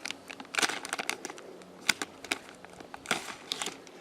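A bag being crinkled and pulled at in an effort to get it open: irregular crackling rustles with a few sharper bursts. It is a hard-to-open bag of soil amendment or seed.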